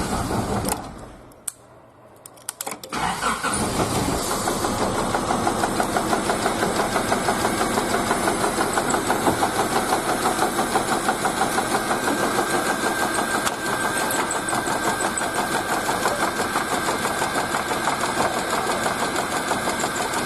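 Car engine cranked on its starter: a short crank stops within the first second, a couple of clicks follow, then it cranks again and the engine catches about three seconds in and settles into a steady idle.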